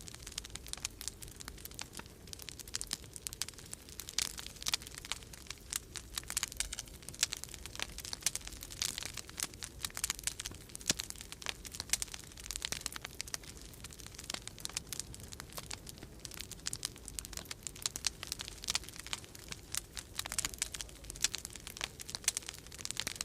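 Wood fire crackling in a fireplace: dense, irregular snaps and pops over a low, steady rumble of storm wind.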